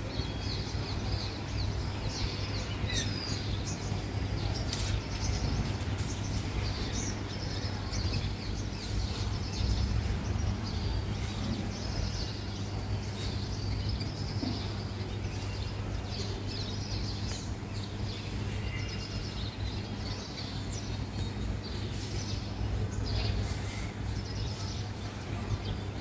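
Small birds chirping in short, scattered high calls, over a steady low background rumble.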